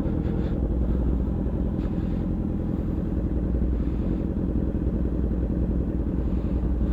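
Motorcycle engine idling steadily, a constant low rumble with no revving.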